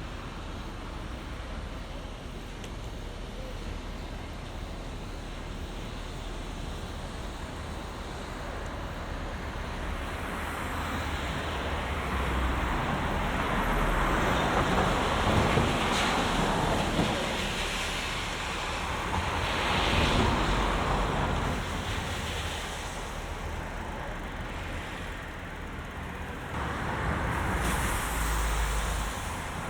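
Road traffic passing, with cars swelling louder and fading as they go by several times, over a steady low rumble of wind on the microphone of a moving bicycle.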